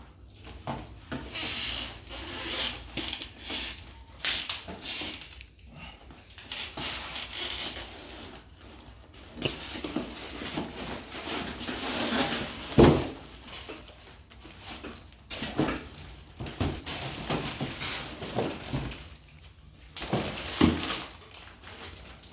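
Unpacking a boxed split air conditioner indoor unit: cardboard and packing material rubbing and scraping, with irregular knocks, the loudest about 13 seconds in.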